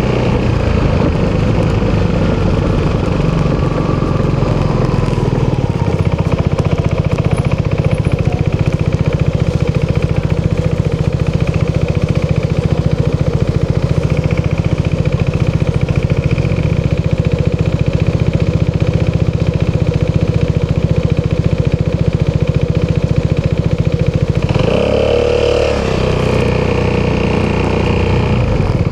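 Italjet Dragster 200 scooter's single-cylinder four-stroke DOHC engine running through an Akrapovic exhaust, with a steady exhaust note. Near the end the engine note briefly dips and then comes back up.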